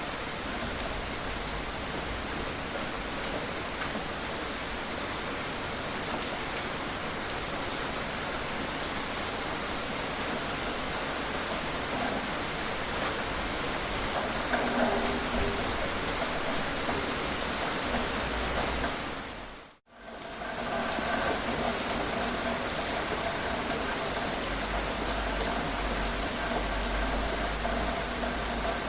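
Steady gentle rain, a dense even patter of drops. About two-thirds of the way through it dips to silence for a moment and fades back in.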